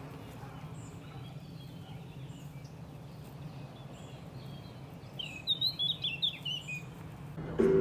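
A songbird sings one short phrase of quick, high chirps about five seconds in, over a steady low background hum.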